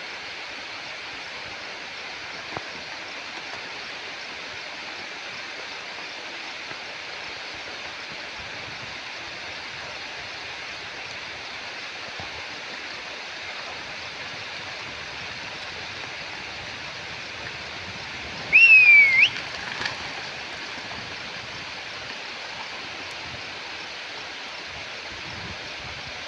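Steady rush of stream water. About two-thirds of the way through comes one short, loud, high whistle-like sound that falls in pitch and then jumps back up.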